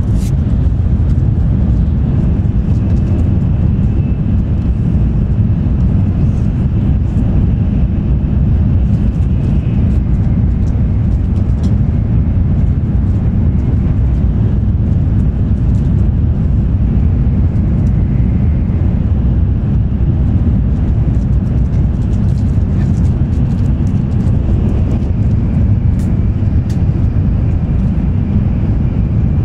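Steady low rumble inside a 16-car JR West N700 Series Shinkansen passenger car running along the line, heard from a seat in the cabin. A few faint clicks come through about 26 seconds in.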